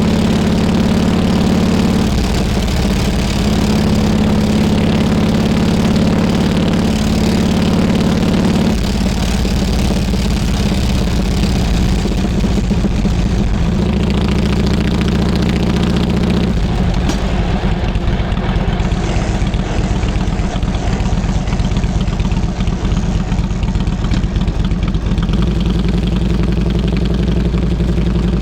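Harley-Davidson Road King Classic's V-twin engine running loud and steady, its pitch changing in steps three times.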